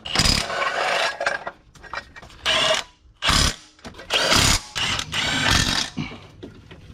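Handheld power tool run in several short bursts, each a second or less, working a bolt.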